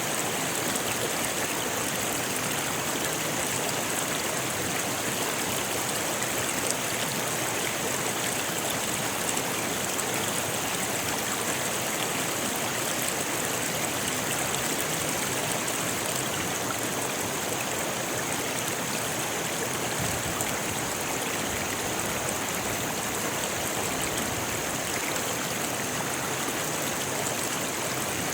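A rocky river rushing over stones, a steady, even flow of water that neither rises nor falls.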